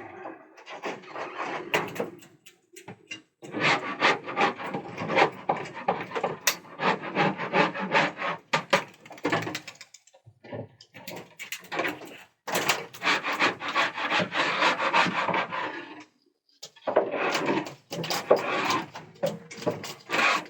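Scratchy rasping and rubbing on wood in a pigeon loft, in three long stretches of a few seconds each with short pauses between them.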